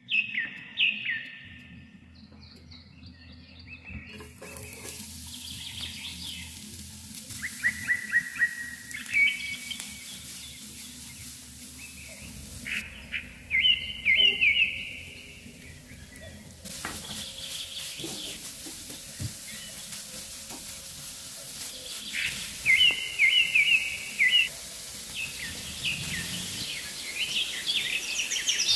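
Small birds chirping in quick repeated bursts of short notes every few seconds, over a steady faint hiss.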